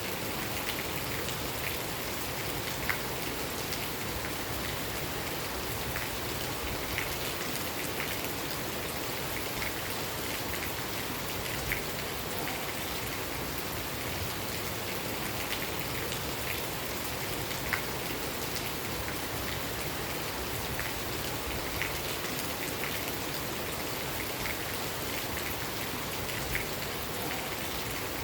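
Steady rain falling, a constant even hiss with scattered louder drops ticking now and then.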